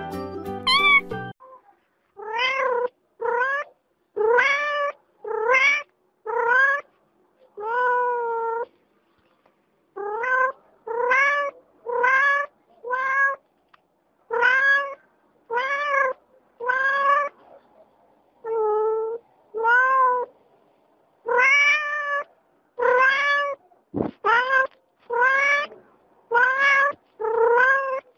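Domestic cat meowing over and over: about twenty separate meows, each rising then falling in pitch, in runs with short pauses. A brief music jingle ends about a second in, and a sharp click comes near the end.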